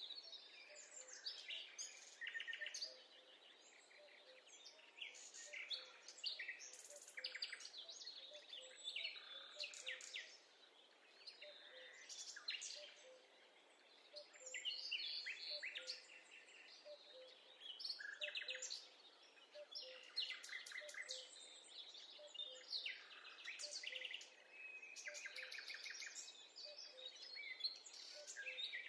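Birdsong, with several birds chirping and trilling in short, overlapping calls over a faint steady hiss.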